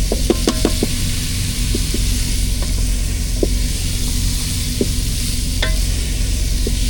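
Food sizzling in an electric cooker on its sauté setting, with a few light clicks of stirring, over the steady low drone of the semi truck's auxiliary power unit (APU).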